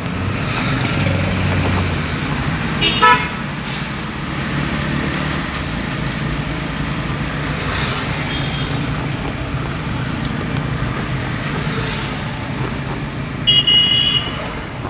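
A car driving in city traffic, with a steady rumble of engine and road noise. Car horns toot briefly about three seconds in, and louder near the end.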